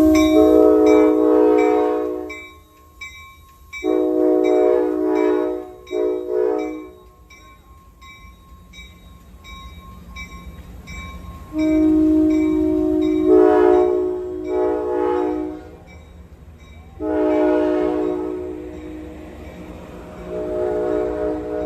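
Amtrak F40PH diesel locomotive's multi-chime air horn sounding a series of blasts with pauses of a few seconds between them: a long blast at the start, a short pair, then a long wavering blast and two more, over the low rumble of the passing train.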